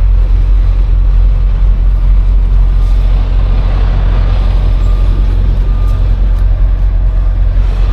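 Semi truck's diesel engine running at low speed while the rig reverses, a steady low rumble heard from inside the cab.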